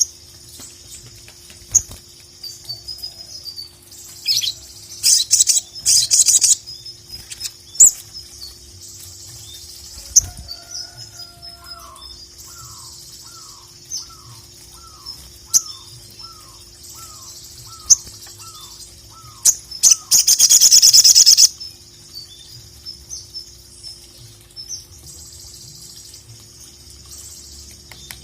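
Sogon (little spiderhunter) calling: high thin chirps with loud bursts of rapid chatter, the loudest near the end. A run of about a dozen lower, down-slurred notes, roughly two a second, comes through the middle, over a faint steady hum.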